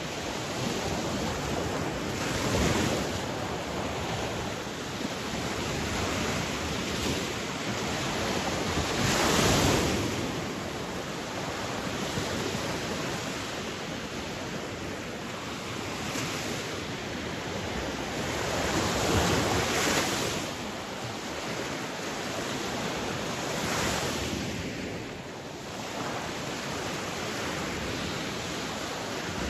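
Sea waves breaking and washing ashore, a steady rush of surf that swells louder every several seconds as waves break.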